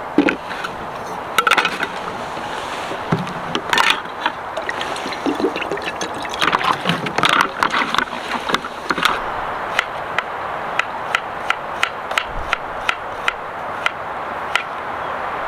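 A kitchen knife chopping vegetables on a cutting board: scattered knocks and handling at first, then from about ten seconds in an even run of chops, two or three a second, over a steady rushing background.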